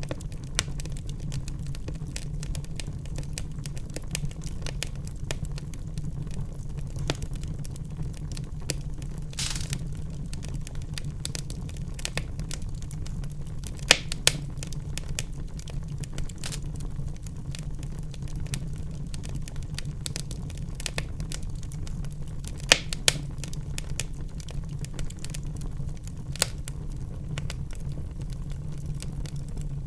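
Wood fire burning in a fireplace, with a steady low rumble and irregular crackles, and a few louder pops about 14 and 23 seconds in.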